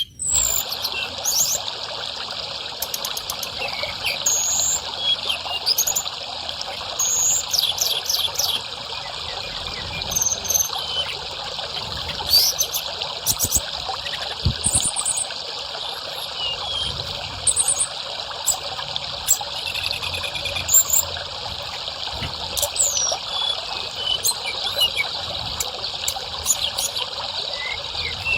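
Steady trickling water with a tledekan, a Cyornis blue flycatcher, singing short high whistles, gliding notes and chirps over it.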